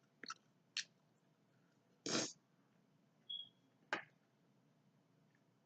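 Close-up eating sounds of a person eating boiled seafood: a few sharp clicks of shell and mouth, with a short wet slurp about two seconds in.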